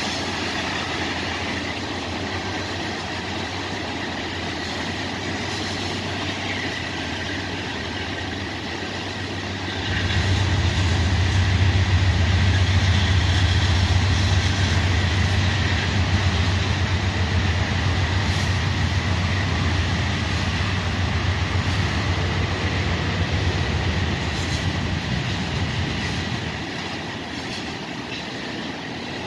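CSX freight train rolling past with a steady rumble of wheels on rail. About ten seconds in, the low hum of a mid-train diesel locomotive (a distributed power unit) joins as it goes by, fading a few seconds before the end while more cars roll past.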